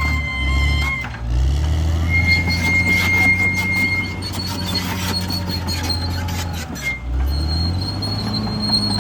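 CAT D6R XL bulldozer's diesel engine running steadily under load. Its pitch sags and picks back up twice, once about a second in and again near the end, as the blade takes a load. A thin high squeal rides over it at times.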